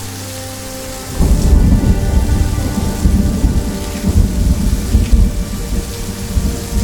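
Steady rain, then a loud roll of thunder that breaks in about a second in and rumbles on, rising and falling, for the rest of the time.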